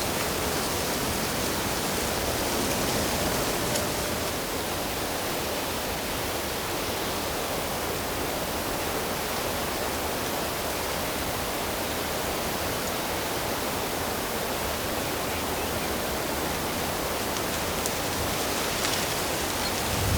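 Steady rush of flowing water from a stream or waterfall, an even hiss spread across all pitches without let-up.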